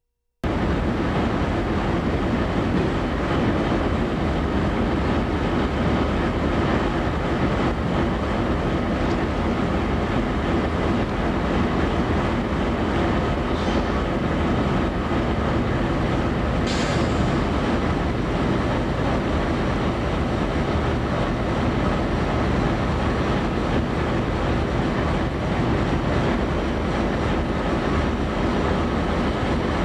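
A train rolling past steadily, its wheels and cars rumbling on the rails, with two brief high squeaks a few seconds apart about halfway through.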